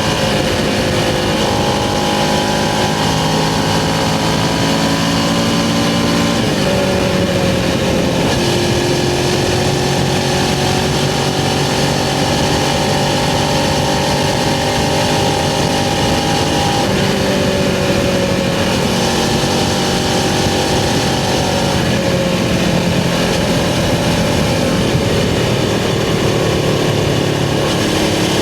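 Suzuki GS500's air-cooled parallel-twin engine running on the move. Its pitch drops sharply about six seconds in, holds fairly steady for a while, then shifts again and falls gradually near the end.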